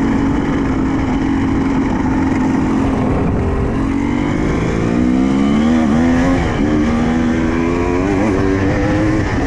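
Honda CR250 two-stroke single-cylinder dirt bike engine running under way, holding a steady pitch for the first few seconds, then revving up and down repeatedly as the throttle is worked.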